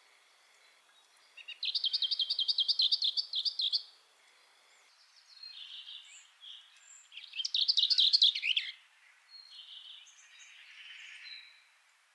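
A songbird singing: two loud phrases of fast repeated high notes, the first about a second and a half in and the second near the middle, with fainter chirps between and after them.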